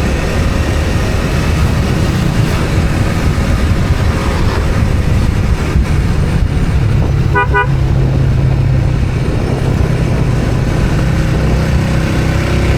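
Steady road-traffic noise from a moving vehicle, with a short pulsing horn toot about seven and a half seconds in.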